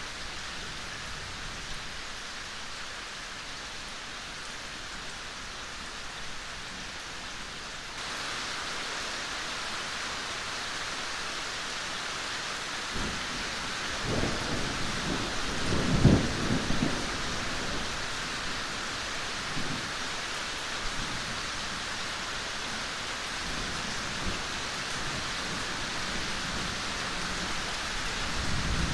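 Steady rain falling, a little louder from about eight seconds in. Thunder rumbles low about halfway through, swelling to a peak and fading over a few seconds, and starts to rumble again near the end.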